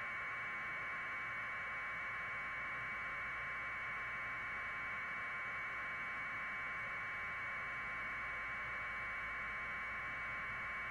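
Steady, unchanging static hiss in a narrow mid-high band, with no other sound.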